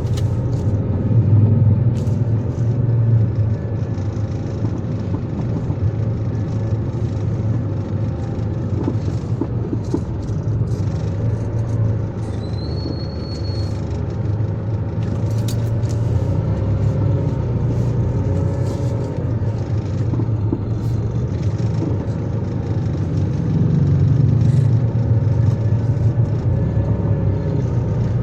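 Road vehicle driving with a steady low rumble of engine and road noise, the pitch of the drone wavering slightly. A brief high steady tone sounds about twelve seconds in.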